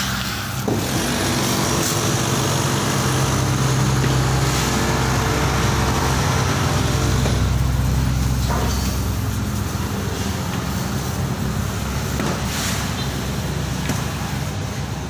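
Motor vehicle engine running close by: a steady low drone with a noisy rumble, the pitched part easing off after about eight seconds.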